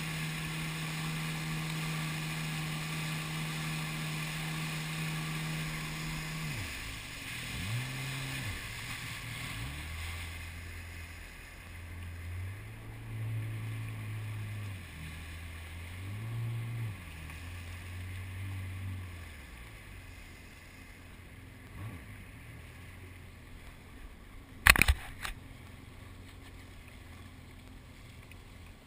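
Jet ski engine running steadily at speed, then the throttle comes off about six seconds in and it settles to a low idle with several short revs before quieting. A single sharp knock, the loudest sound, comes near the end.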